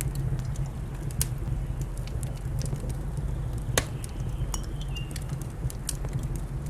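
Wood fire crackling and popping in a fireplace: irregular sharp snaps over a steady low rumble, with one louder pop a little under four seconds in.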